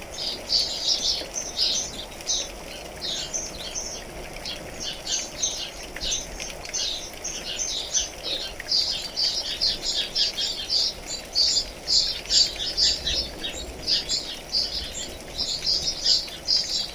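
Many songbirds chirping in a dense, continuous chorus of short, high notes, with rain pattering faintly beneath.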